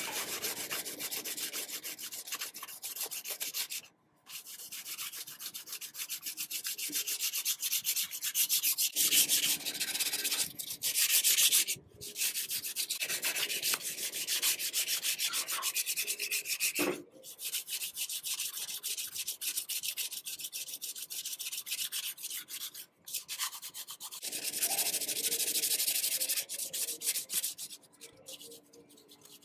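Sandpaper rubbing on a part of an antique sewing machine being restored: rapid, continuous scraping strokes, stopping briefly four times.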